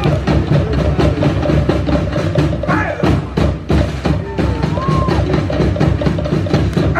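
Fast Polynesian drumming: wooden log drums struck in a rapid, even beat over a deep drum.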